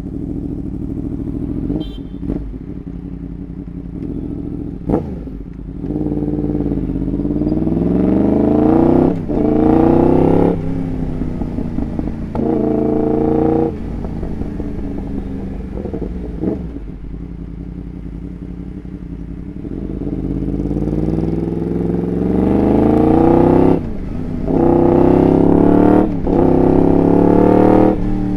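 Motorcycle with a Graves aftermarket exhaust accelerating hard through the gears, the engine note climbing and dropping at each upshift. A few sharp exhaust pops crack out between the pulls.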